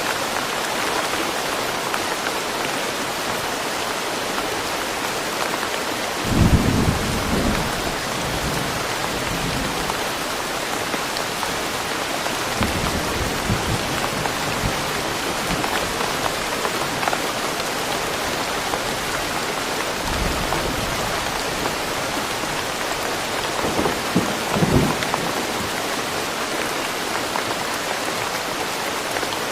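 Steady rain falling through trees, with four short low rumbles of thunder, the strongest two standing out over the rain.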